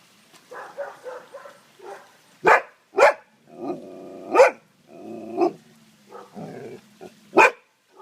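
Dog barking: four sharp barks about two and a half, three, four and a half and seven and a half seconds in, with lower drawn-out whining vocal sounds between them.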